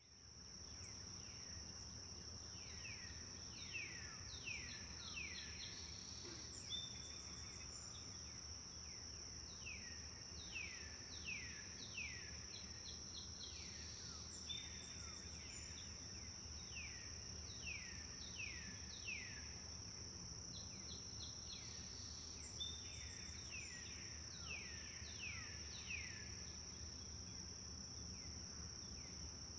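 Forest bird chirping: runs of short, quick downward-sweeping chirps, with an occasional brief whistled note, over a steady high-pitched insect trill and a low, even background noise. The same pattern of calls comes round about every eight seconds.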